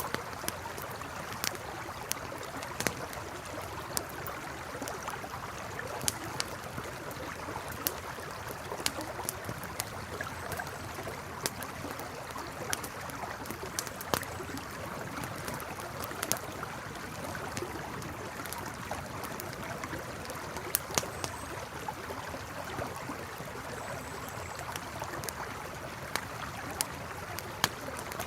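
Campfire crackling, with sharp irregular pops, over the steady rush of a flowing river.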